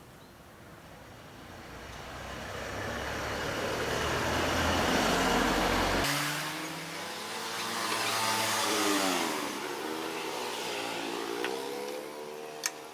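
Sewing machine running under power, its motor speeding up and slowing down so the pitch slides up and down, with a sharp click near the end.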